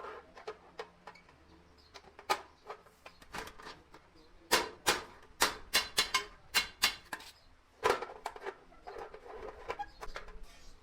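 Sheet metal being struck with a hand hammer: a few lighter taps, then a run of about ten sharp blows at two to three a second, and a rougher stretch of working near the end.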